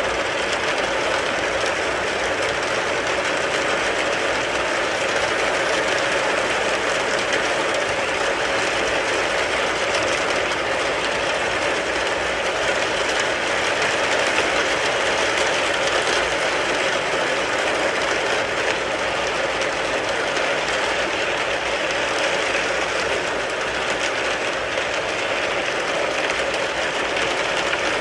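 Rain falling steadily on a car, heard from inside the car: a dense, even patter of drops on the body and glass that does not let up.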